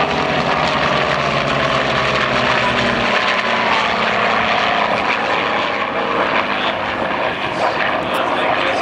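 Aircraft engine running loud and steady as it flies by, its pitch dropping slightly about three seconds in.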